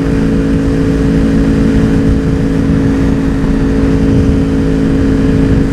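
Motorcycle engine running at a steady cruising speed while ridden, its pitch holding level, with a steady rush of wind noise underneath.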